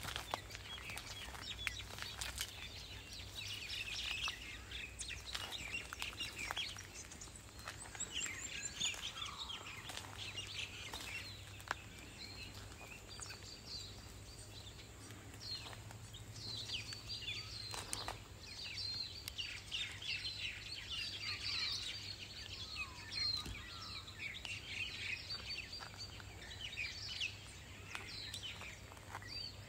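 Birdsong: many small birds chirping and trilling, calls overlapping one another throughout.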